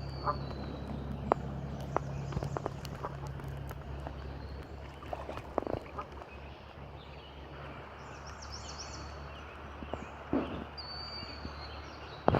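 Outdoor ambience: a steady low rumble with scattered clicks and crunches. A few short, high bird chirps come through, one near the start, a run a little after the middle and one near the end.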